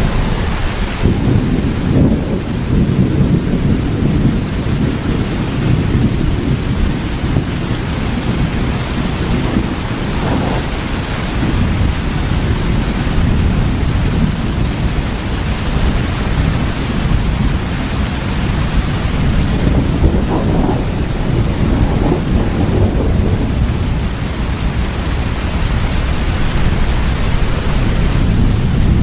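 Steady rain, with a low rumble underneath that swells several times.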